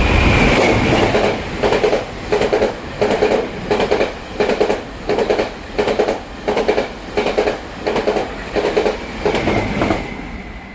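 Taiwan Railway PP push-pull Tze-Chiang express passing through the station, hauled by an E500 electric locomotive. A loud rumble as the locomotive goes by, then the carriage wheels clack over the rail-joint fishplates in a steady rhythm of about two clacks a second, fading out near the end.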